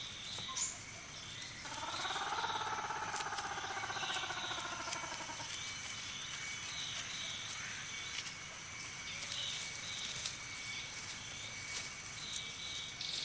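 Soft outdoor nature ambience with faint, repeated high chirps, and a buzzing hum that rises slightly in pitch from about two seconds in and stops sharply a few seconds later.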